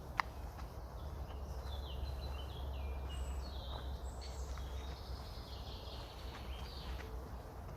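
Several songbirds singing short, high phrases that step downward in pitch, over a steady low wind rumble. A single sharp click sounds just after the start.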